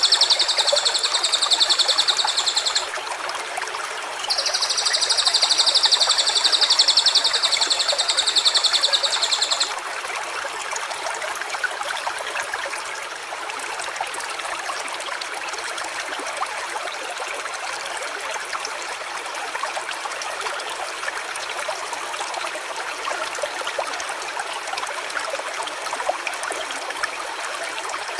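Small stream running steadily. In the first ten seconds a loud, high, even buzzing drone sounds twice: once until about three seconds in, then again for about five seconds. Each time it stops abruptly.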